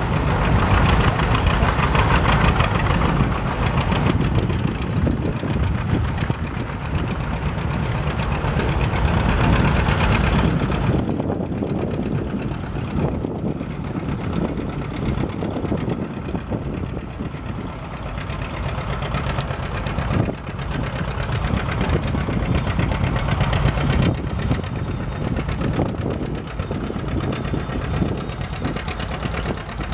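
Antique farm tractor engine running hard under load, typical of a pull with a weight sled. About eleven seconds in it eases off to a lower, steadier run.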